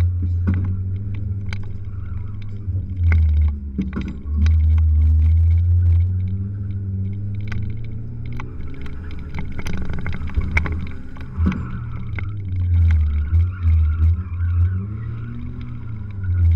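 Mazda B2200 race truck's four-cylinder engine being driven hard through an autocross course, its low drone surging loud under acceleration and easing off between, pitch rising and falling, with scattered clicks and rattles.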